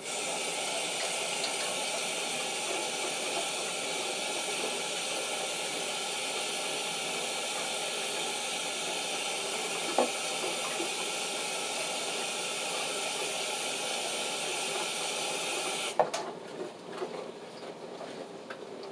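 Tap water running steadily into a sink, with a hiss, then shut off suddenly about three-quarters of the way through with a clunk. There is a single knock near the middle.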